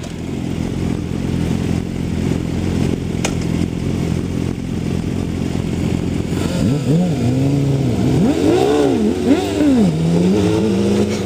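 Sport motorcycle engine running at a steady cruise, then from about six seconds in revving up and down repeatedly through several rises and falls in pitch.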